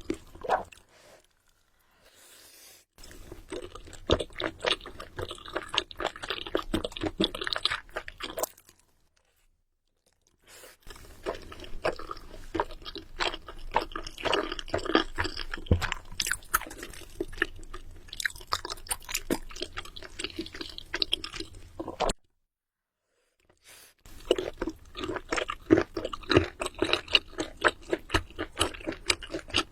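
Close-miked chewing of food, dense wet smacking and crunching in three long stretches, each broken off by a sudden total silence.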